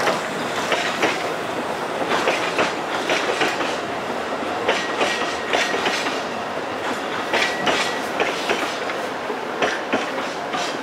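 Narrow-gauge train rolling along the track, its wheels clicking irregularly over the rail joints. Twice, partway through, a short thin squeal of the wheels is heard.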